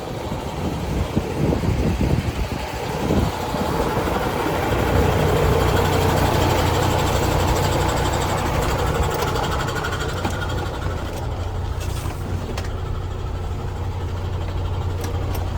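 Diesel engine of a MAN TGS 32.364 concrete mixer truck running steadily. Wind buffets the microphone in the first few seconds.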